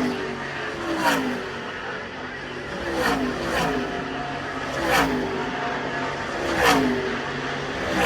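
NASCAR racing V8s passing one after another at speed, about six times, each engine note dropping sharply in pitch as it goes by.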